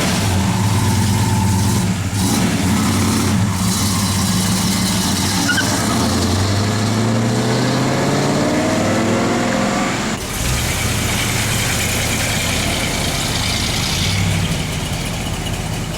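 Car engine running, then revving up with a rising pitch for a few seconds from about six seconds in, before the sound changes abruptly and a steady engine carries on.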